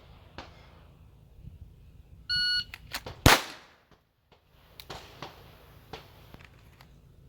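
Shot timer beeps, and about a second later a single loud 9mm pistol shot from a Glock 45.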